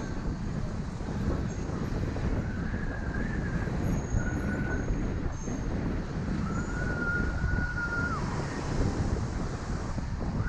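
Wind buffeting the microphone and road rumble while riding a bicycle in traffic. Several steady high-pitched squeals of a second or so cut in over it, the longest one dropping in pitch just before it stops.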